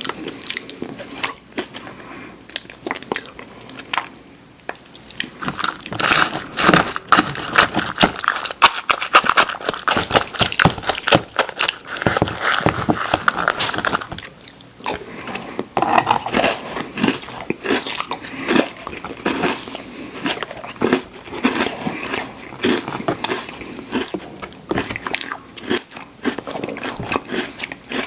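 Close-miked crunchy cookies being bitten and chewed, a dense run of crisp crunches and mouth sounds that grows busier and louder about five seconds in.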